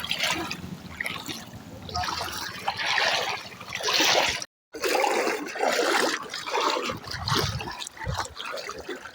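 Water trickling and splashing in irregular surges, with a brief break in the sound about halfway through.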